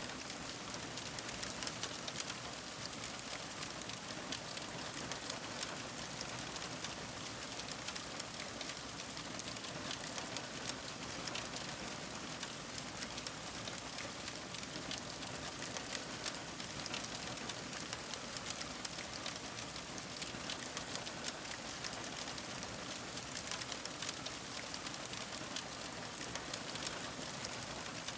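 Fire crackling: a steady hiss with dense small pops and crackles throughout, no single one standing out.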